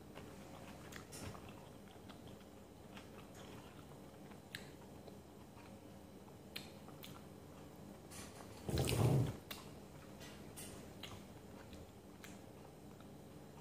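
Close-up eating sounds: a person chewing chicken and vegetables, with soft mouth and finger clicks scattered throughout. About nine seconds in comes one louder, muffled bump lasting under a second.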